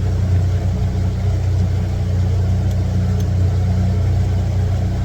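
Small boat's motor running steadily under way, an even low drone.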